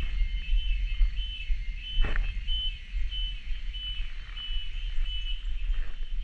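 Cicadas calling in a steady, high, shrill chorus that swells and pulses. A loud low rumble on the action camera's microphone lies underneath, and a brief rustle comes about two seconds in.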